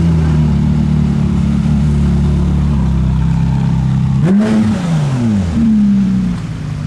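Car engine running steadily, then revving sharply a little past four seconds in, the revs falling away again over about a second. A second brief rev follows that also drops off.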